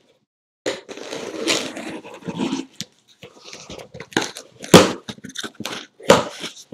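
Packaging of a sealed trading-card case being torn open and handled: a long crinkling tear, then several sharp knocks as the boxes are handled.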